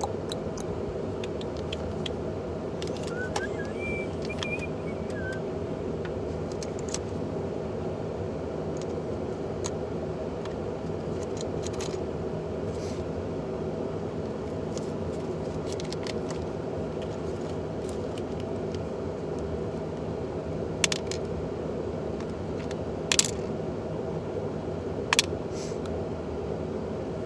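Steady mechanical hum under scattered light metallic clicks and clinks, with three sharper clinks near the end.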